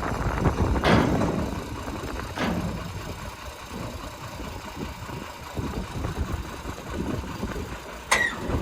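Heavy diesel engine running steadily at low speed, with three sharp metallic clanks: one about a second in, one a little later, and the loudest near the end.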